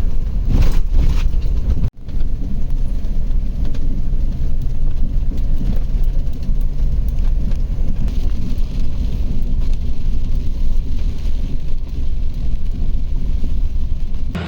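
A vehicle driving along a road: a steady engine hum and road rumble, broken by a momentary drop-out about two seconds in.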